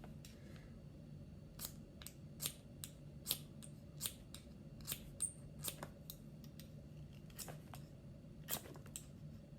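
Small flint fire striker rod being scraped with its striker to throw sparks: a dozen or more short, sharp scrapes about half a second apart, starting about a second and a half in.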